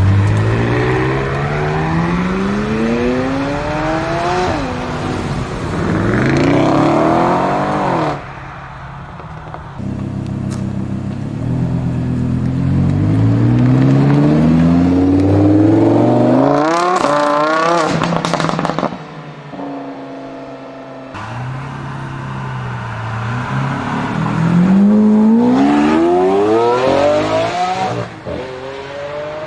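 Loud supercar engines accelerating hard, their pitch climbing in repeated sweeps as they rev up through the gears. Several short clips follow one another with abrupt cuts.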